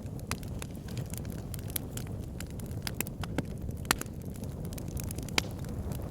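Wood fire burning in a log burner: a steady low rumble of flames with irregular sharp crackles and pops from the logs, two louder pops about four and five and a half seconds in.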